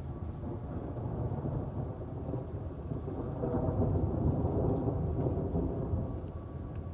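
Rolling thunder in steady rain, a deep rumble that swells to a peak about halfway through and then eases off.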